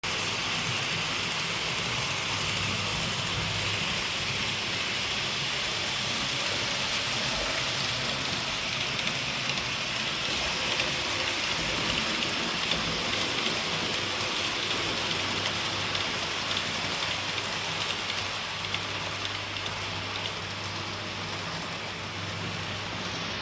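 Kato N scale trains running on Unitrack: a steady rolling hiss of metal wheels on the track with a faint low hum underneath, easing slightly near the end.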